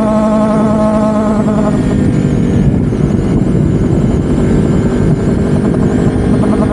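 Loud, rough vehicle noise from a ride. A steady wavering hum in the first couple of seconds gives way to a dense, uneven rumble.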